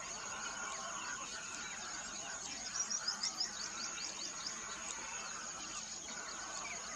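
Several birds calling and singing at once, with a quick run of about eight loud, falling chirps about three seconds in. A steady high-pitched whine runs underneath.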